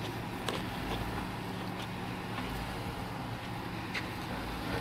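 Jeep Wrangler engine running steadily at low revs as it crawls slowly over a rutted dirt track, with a few scattered sharp clicks.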